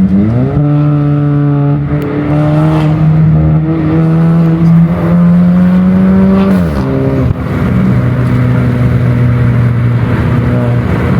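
Car engine and exhaust pulling hard under acceleration: the engine note climbs for about six seconds, then drops to a lower steady drone.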